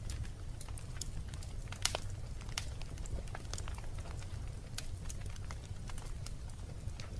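Wood fire burning in a fireplace: irregular sharp crackles and pops over a steady low rumble of the flames, with one louder pop a little under two seconds in.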